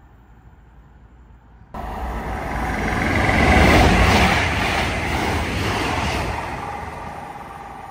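Great Western Railway Class 800 intercity train passing close by. Its rushing noise starts suddenly about two seconds in, is loudest near the middle, then fades as the train goes away.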